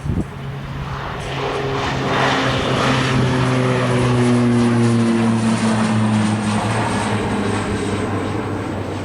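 Jet aircraft engines passing by: a high whine and a lower hum that slowly fall in pitch as the plane goes past, the sound swelling to its loudest about halfway through and then easing off.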